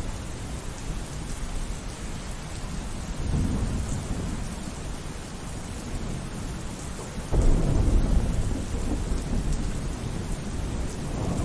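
Thunderstorm: steady rain with thunder. A low rumble swells about a third of the way in, then a louder peal breaks suddenly past the halfway point and rumbles away.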